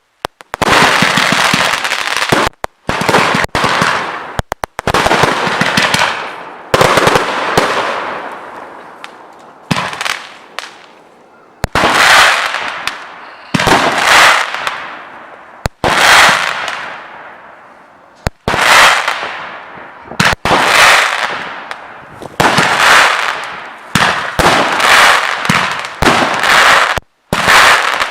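A 96-shot multi-caliber consumer fireworks cake (TKB 088) firing shot after shot. Each sharp bang is followed by a hiss that fades over about a second, and they come roughly every one to two seconds.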